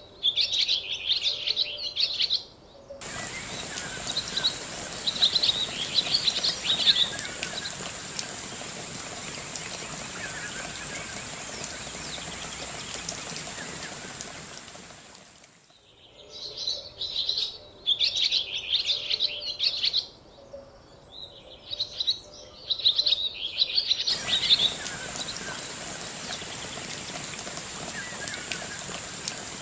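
Birds chirping in quick bursts of high calls, broken by sudden cuts to long stretches of steady hiss with a thin high whine, in which fainter bird calls still come through.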